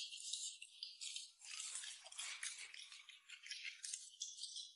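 Faint close-up eating sounds: quick, crisp crunching and chewing as a raw cucumber is bitten into and eaten.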